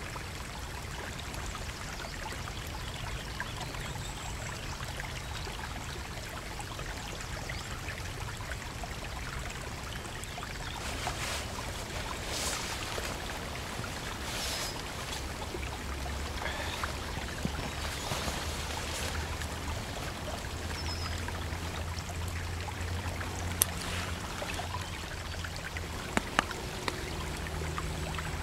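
Steady rushing of a flowing stream, with rustling for a few seconds in the middle and a few sharp clicks near the end.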